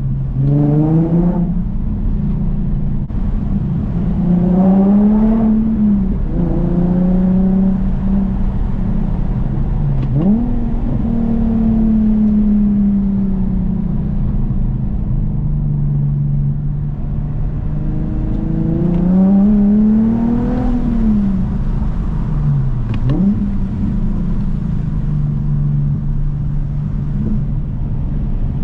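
Infiniti G37S coupe's VQ37VHR V6 running through a custom 3-inch single catback exhaust while driving. The engine note climbs and drops back several times as the car accelerates and shifts, with steady cruising stretches in between.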